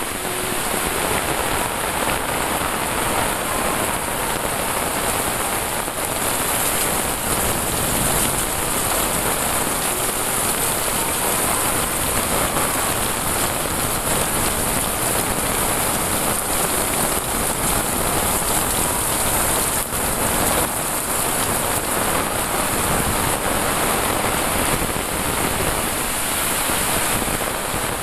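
Heavy rain pouring steadily onto leaves, roofs and a wet paved path, an even, unbroken rush of sound.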